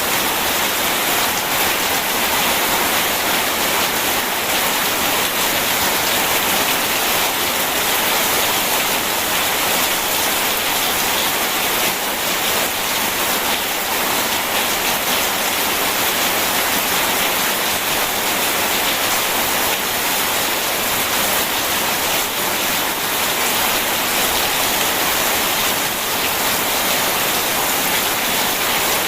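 Steady, even hiss of heavy rain, with no thunderclaps.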